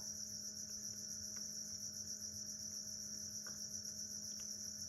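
Crickets chirping steadily, a continuous high pulsing trill, with a faint steady low hum beneath.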